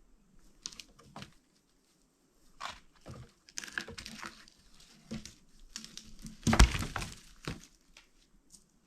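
A run of irregular crackles, snaps and knocks, loudest in one heavy thud about two-thirds of the way through.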